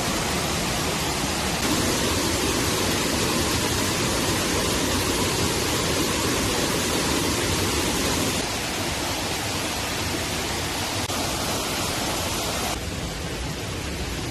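Steady rushing of water, an even hiss with no distinct events, shifting abruptly in level and tone about one and a half, eight and a half and thirteen seconds in.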